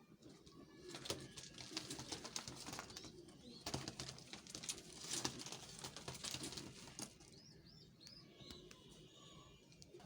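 Domestic pigeons cooing, with bursts of wing flapping and rustling, and a few short high chirps in the second half.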